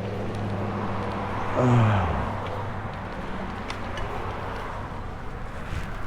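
Kawasaki Vulcan VN750's V-twin engine idling, then switched off about two seconds in, its pitch dropping as it winds down to a stop. A few faint clicks follow.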